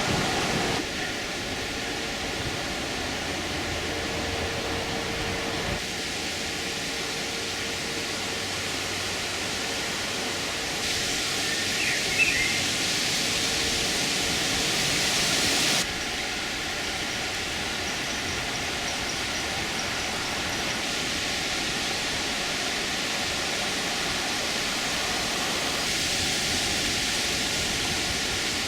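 Steady rushing noise of flowing river water, in a run of short clips whose level changes abruptly about every five seconds.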